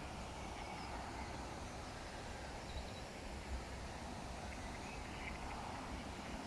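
Steady outdoor background noise by a pond, with a low rumble and a few faint, distant bird chirps.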